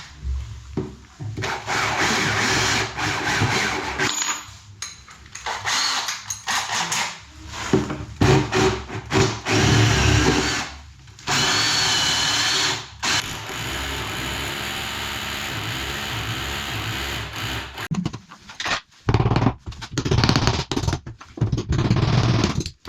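Power drill run in a series of short bursts and one longer steady run, with clicks and knocks of handling between them, used in fixing a wash basin to a boarded wall.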